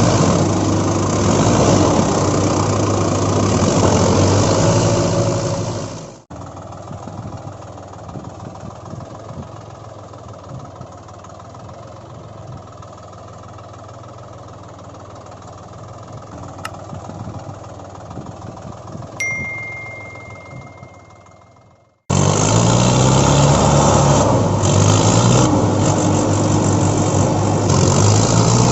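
A vehicle engine running at a steady idle. It cuts off abruptly about six seconds in, leaving a much quieter noisy stretch that ends with a steady high tone fading out. The engine sound cuts back in abruptly about two-thirds of the way through.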